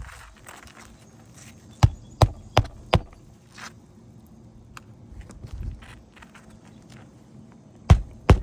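Hammer driving roofing nails into roof shingles: four quick strikes about two seconds in, then two more near the end.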